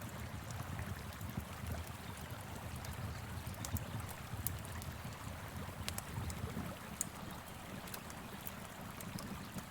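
Steady rush of a flowing river mixed with a wood fire crackling, its scattered sharp pops and snaps heard over the water.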